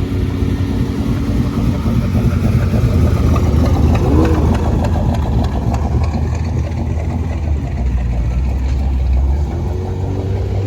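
A car engine running close by, growing louder to a peak with a brief rise and fall in pitch about four seconds in, then settling back to a steady run.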